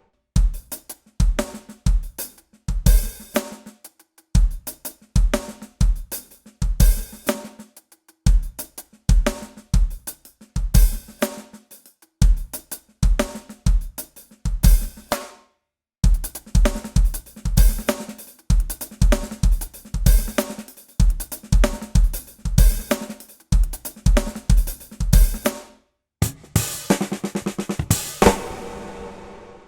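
Drum kit played solo: a fast groove of bass drum, snare and hi-hat with dense gospel-style chop fills and cymbal hits. It stops briefly about halfway through and again near the end, where a cymbal rings on.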